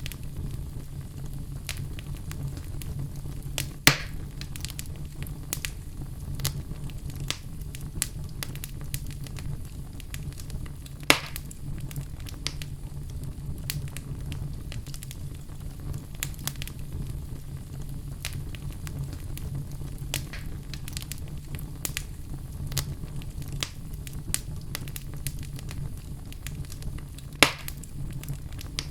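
Crackling fire: a steady low rumble with frequent small crackles and three louder pops spread through.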